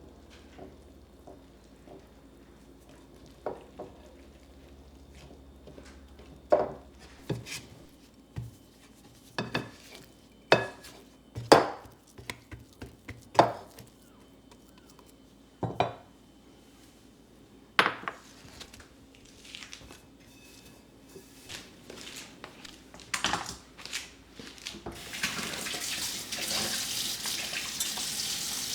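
Dishes and utensils clattering as they are handled and set down, a series of sharp knocks and clinks. Near the end a tap is turned on and water runs steadily.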